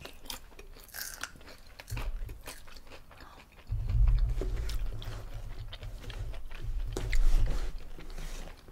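Close-miked crunchy chewing of battered fried shrimp: many short, crisp crackles, with a low rumble from about four seconds in.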